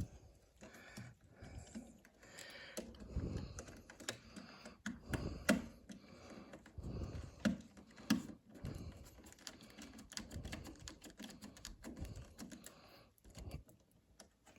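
Irregular small clicks, taps and scraping from wires and small terminal screws being handled while hand-wiring a wall thermostat's terminals.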